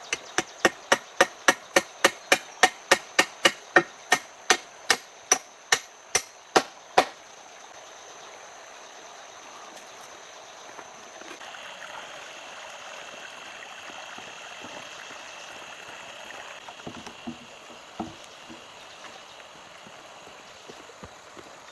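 A rapid run of about twenty sharp, evenly spaced chopping strikes, about three a second, which stops abruptly about seven seconds in. After it comes a steady high tone over a light background hiss.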